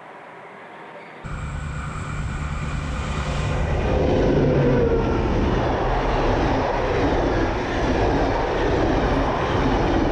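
A train running close by: a loud, steady rumble with some wavering tones, cutting in suddenly about a second in and growing louder over the next few seconds.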